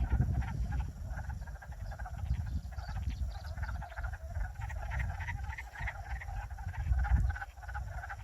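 Chorus of many frogs calling at once, a dense stream of rapid overlapping croaking pulses, over a low rumble.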